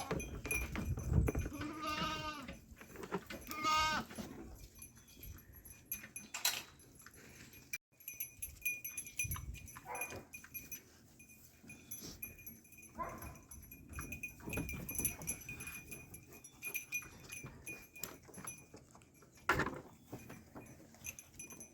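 Goats bleating: two quavering calls in the first four seconds and a fainter one about thirteen seconds in, with scattered knocks and rustling between them.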